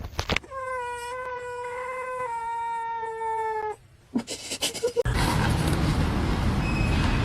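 Domestic cat giving one long drawn-out meow of about three seconds, its pitch stepping down slightly partway through. It is followed by a few clicks and then, from about five seconds in, a loud rustling noise.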